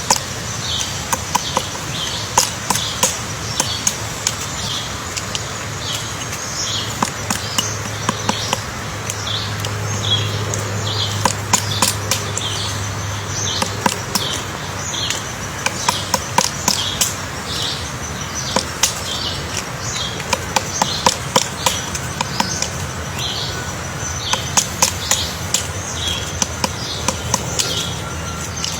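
Woodpecker chiselling into wood to dig out its nest hole: sharp taps in irregular quick clusters. A bird's short high chirps repeat about twice a second alongside.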